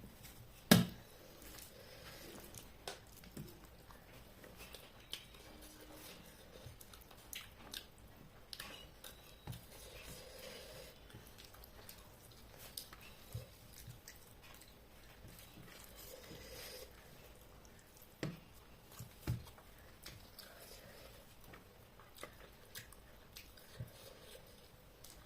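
A person eating quietly: soft chewing and mouth noises with scattered small clicks and taps, the sharpest about a second in and two more a little past halfway.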